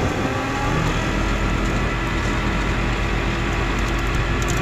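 Rollback tow truck's engine running steadily, a low even rumble with a steady whine over it.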